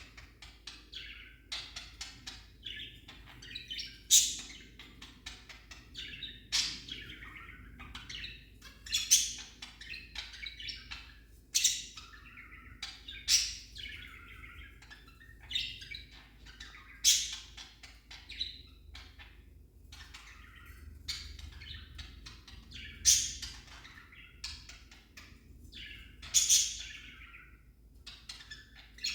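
Pet budgerigar chattering and warbling without a break, with loud, sharp chirps every two or three seconds.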